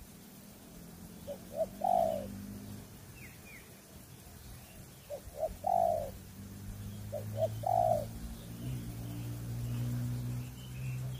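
Spotted dove cooing: three phrases a few seconds apart, each two short notes followed by a longer coo. A low steady hum swells underneath in the second half, with faint high chirps from small birds.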